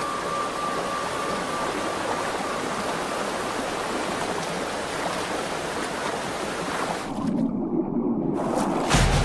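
Creek water running steadily over stones. Near the end the rush dulls for about a second, and then comes a sudden loud thump.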